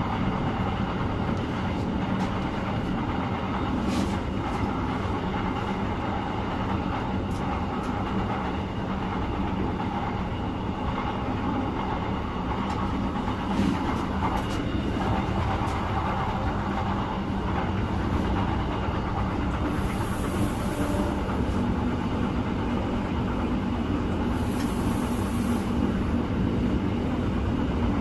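Running noise heard from inside a moving train carriage: a steady rumble of wheels on the rails with a few faint clicks. Two brief high hisses come about two thirds of the way through.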